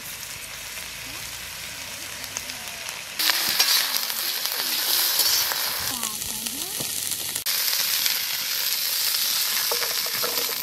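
Cauliflower florets frying in hot oil in a metal wok, a steady sizzle, stirred with a spatula; the sizzle gets louder about three seconds in.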